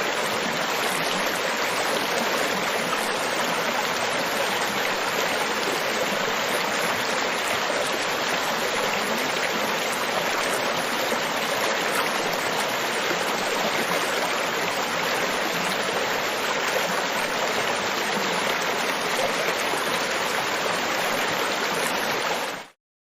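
Steady, even rush of water with no swells, which cuts off abruptly near the end.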